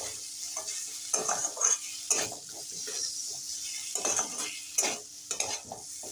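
Chicken pieces, chopped onion and green chilli frying in oil in a metal kadai, sizzling steadily, while a metal spatula scrapes and stirs through them in irregular strokes.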